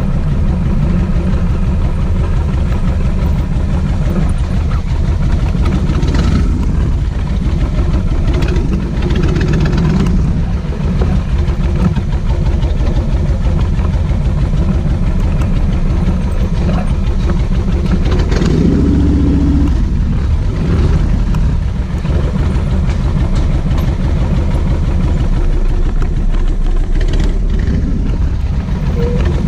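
Kawasaki VN1600 Mean Streak's V-twin engine running steadily on the move, with a few brief louder surges.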